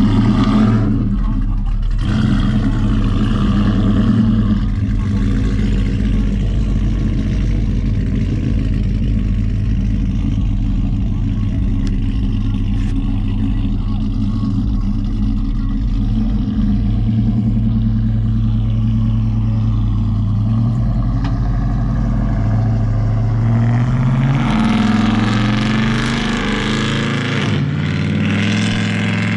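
Pickup truck engine running steadily, then revving up with rising pitch over the last few seconds.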